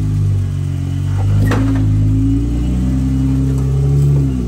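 Jeep engine revving up and down with the throttle, its pitch climbing through the middle and dropping near the end, with one sharp knock about a second and a half in.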